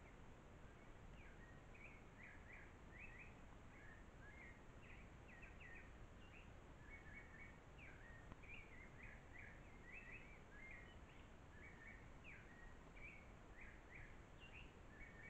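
Faint bird calling: a steady run of short chirping notes, about two or three a second, over a constant low background hiss.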